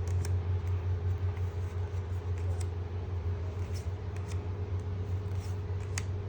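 Steady low hum of a machine or appliance in the room, with a few faint clicks and rustles of trading cards being handled and flipped.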